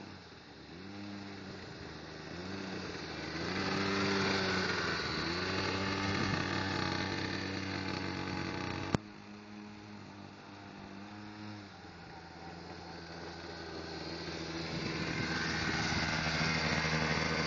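A pocket bike's small engine revs up and down several times in quick succession, then runs more steadily and grows louder near the end. There is one sharp click about nine seconds in.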